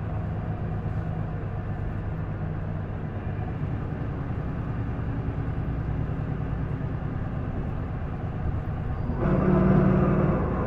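Isuzu Erga PDG-LV234L2 city bus heard from inside while running: a steady engine and drivetrain drone. Near the end a louder, pitched drone sets in suddenly as the engine pulls at high revs. The recordist notes that this bus makes an unusual noise.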